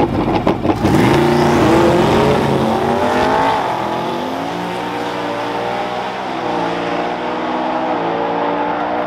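A vehicle engine revving: its pitch dips just after the start, climbs over the next few seconds, then holds high with small up-and-down shifts.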